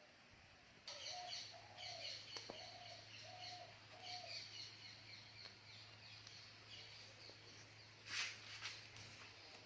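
Faint bird calls: a run of about five short, evenly spaced repeated notes in the first half, over a faint steady low hum. A brief hiss comes about eight seconds in.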